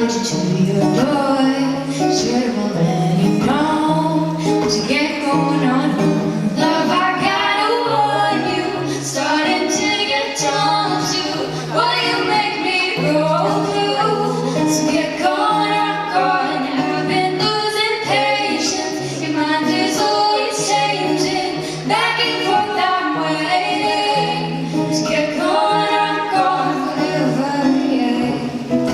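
Music: female voices singing, over an accompaniment with a repeating low note.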